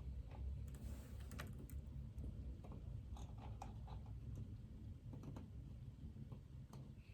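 Typing on a computer keyboard: irregular keystrokes in short clusters over a steady low hum.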